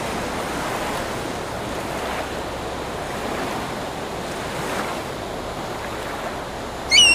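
Steady rush of ocean surf breaking on the shore. Just before the end comes a brief, shrill bird call, typical of an osprey or sea eagle.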